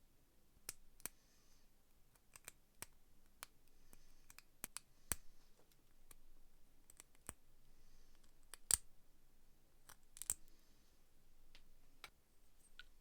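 Irregular small clicks and taps, a dozen or more, with two louder ones about nine and ten seconds in, and faint brief scraping between them: small metal parts being handled.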